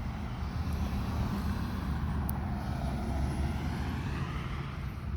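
1932 Ford coupe's engine running with a steady low rumble.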